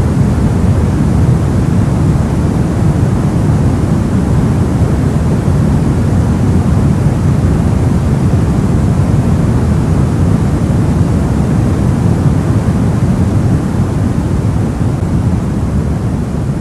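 Steady soft white noise for sleep, weighted toward the low end so it sounds deep rather than hissy. It eases down slightly near the end.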